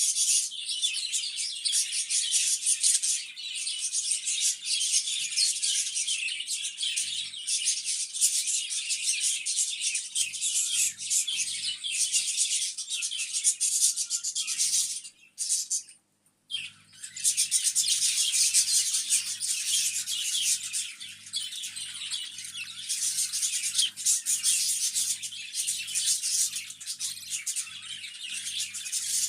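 Many small birds chirping and twittering together in dense, overlapping chatter, breaking off for about a second midway.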